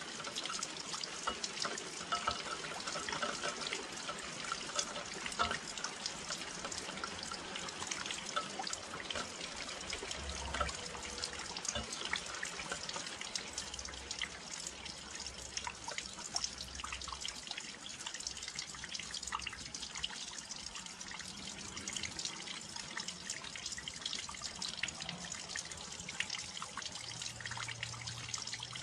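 Steady rain with a dense patter of many small drops and drips at a windowsill.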